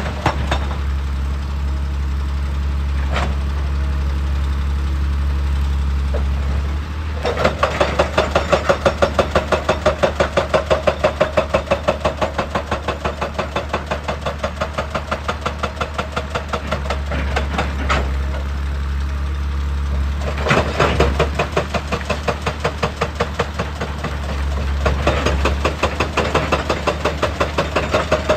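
Excavator diesel engine running steadily, then a hydraulic rock breaker hammering in long runs of rapid, evenly spaced blows, starting about a quarter of the way in, pausing briefly, and starting again twice near the end.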